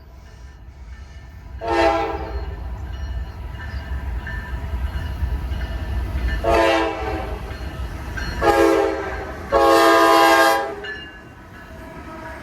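Norfolk Southern GE Dash-9 locomotive horn sounding four blasts, three short and a last longer one. Under the horn is the low rumble of the passing train, building to a peak about halfway through and then fading.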